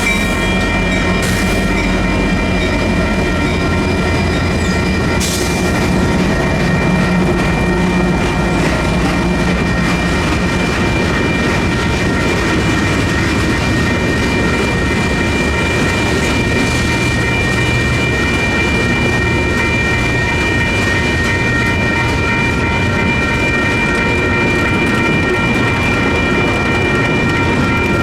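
Union Pacific freight train rolling slowly through a grade crossing, its cars rumbling and clacking over the rails. The crossing's electronic bells ring steadily over it the whole time.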